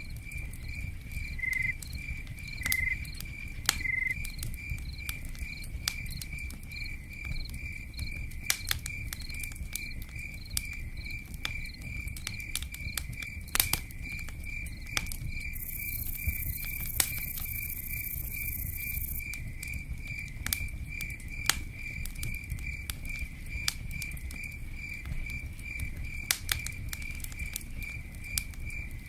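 Cricket chirping steadily at a few chirps a second, over a low rumble scattered with sharp pops and ticks like a crackling campfire. About halfway through, a brief high hiss joins in for a few seconds.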